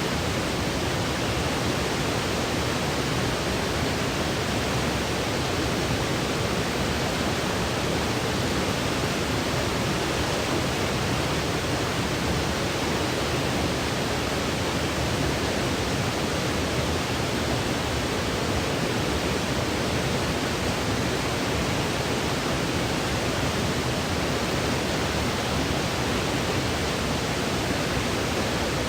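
Steady white noise for helping a baby sleep: an even, unchanging hiss with no breaks.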